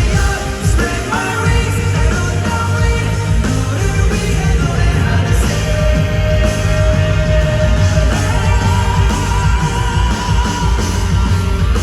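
Live pop-rock band playing with a lead singer: drums, bass and guitars under the vocals, with long held notes in the middle stretch.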